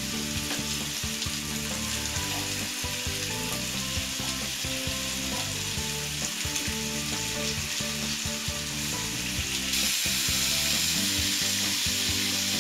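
Marinated chicken pieces sizzling in oil in a hot grill pan over a low flame, a steady frying hiss that grows louder about ten seconds in.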